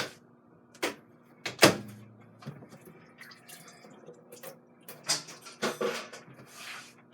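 Kitchen handling sounds: a series of knocks and clatters of dishes and utensils as food is served onto a plate, the loudest about one and a half seconds in, with a busier clatter near the end.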